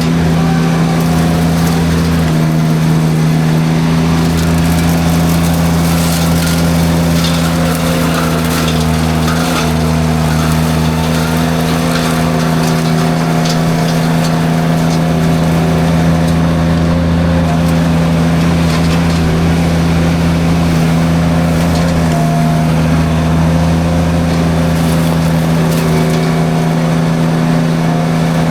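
Derette V1000 mini skid steer running hard at a steady speed while powering a drum forestry mulcher, its pitch dipping briefly a few times as the drum takes load. Scattered sharp cracks from brush being chewed by the mulcher.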